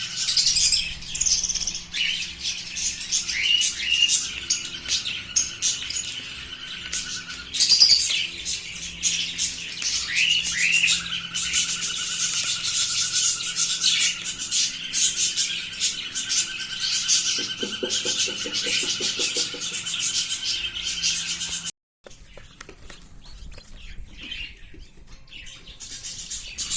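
A flock of budgerigars chirping and chattering, many quick high calls overlapping; near the end it cuts off abruptly and resumes as quieter chirping.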